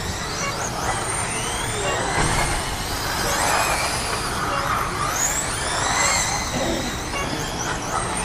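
Several electric RC sprint cars racing on a dirt oval, their motors whining and sliding up and down in pitch as they accelerate and back off around the track, over a steady hiss.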